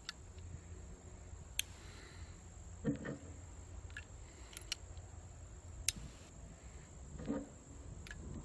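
Uberti Lightning revolver being loaded at half cock: several sharp metallic clicks, spaced a second or so apart, as .38 Special cartridges go into the chambers and the cylinder is turned, with a couple of duller handling knocks. Crickets give a steady high drone throughout.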